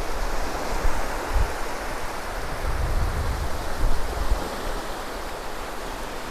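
Ocean surf washing onto the beach in a steady hiss, with wind gusting on the microphone in low, uneven rumbles.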